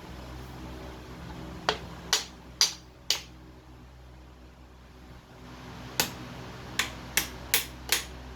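Sharp taps or knocks, four in quick succession, then after a pause five more, over a low steady hum.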